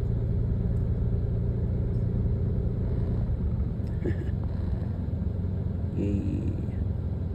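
Steady low rumble of a car running, heard from inside, with two brief faint pitched sounds about four and six seconds in.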